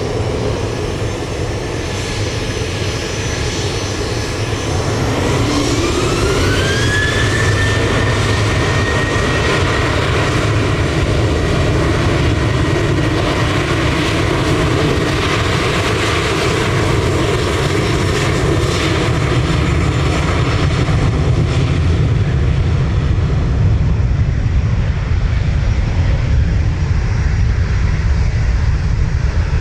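Jet airliner engines spooling up to high thrust over a continuous loud, deep rumble. A whine rises in pitch for about three seconds, starting about five seconds in, then holds steady.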